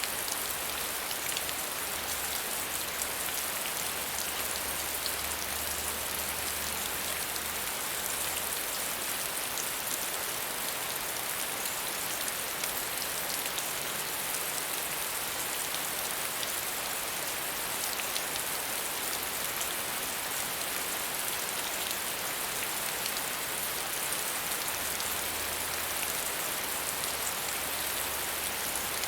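Steady, medium rainfall: an even hiss of rain on surfaces with scattered individual drops.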